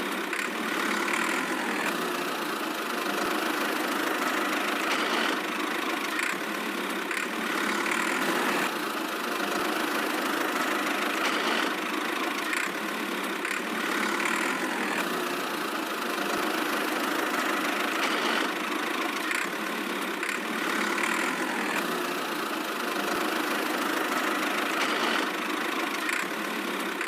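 Tractor engine running steadily at an even idle-like pace. It sounds thin, with no deep rumble.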